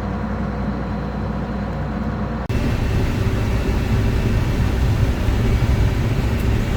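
A combine harvester running steadily, then an abrupt cut about two and a half seconds in to the louder, fuller running of a combine harvesting corn, heard from inside the cab, with a faint steady high whine.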